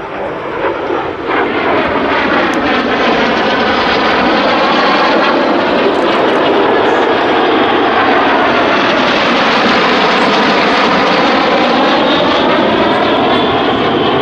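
Aero L-39 Albatros jets of a formation flying past, the noise of their turbofan engines building over the first couple of seconds into a loud, steady rush. A swirling, phasing sweep runs through it, falling toward the middle and rising again as the jets pass.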